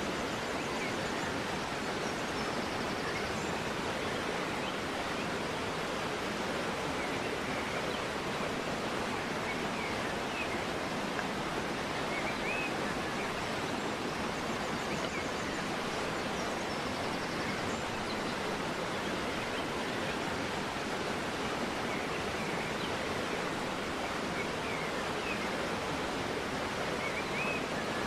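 River water flowing in a steady, continuous rush, with faint short bird chirps now and then over it.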